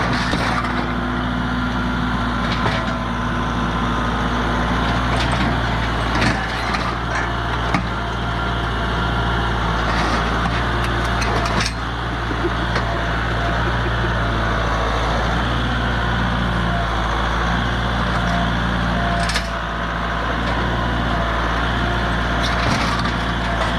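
A steady, low mechanical drone with occasional sharp clicks and knocks, like hand-tool work on metal.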